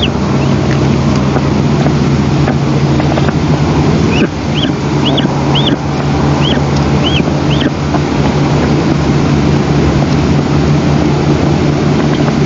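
Wind buffeting the nest camera's microphone in a steady loud rumble. About a third of the way in comes a series of about six short, high, arched bird calls, roughly two a second.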